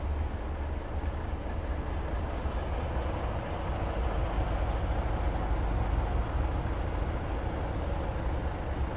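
Volvo FH500 truck's 13-litre straight-six diesel engine running with a steady, deep rumble.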